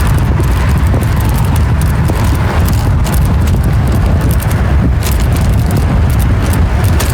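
Wind rumbling steadily on the microphone of a camera riding along on a bicycle, with scattered light clicks and rattles.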